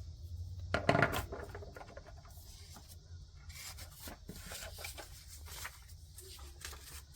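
Paper cash and papers being handled on a desk: rustling, rubbing and light taps, with a louder handling noise about a second in.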